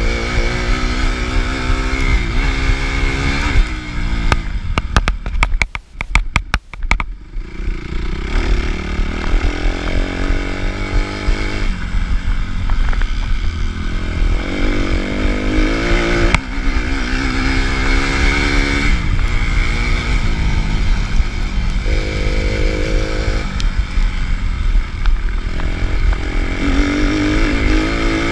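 Suzuki RM-Z250 dirt bike engine, heard from onboard, revving up and down repeatedly as the rider opens and closes the throttle, over a low rumble of wind on the microphone. About four to seven seconds in the engine drops away and a string of crackles is heard before it picks up again.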